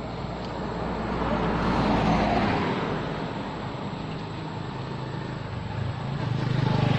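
Road traffic: a vehicle passing, its noise swelling to a peak about two seconds in and fading, with another engine rising near the end.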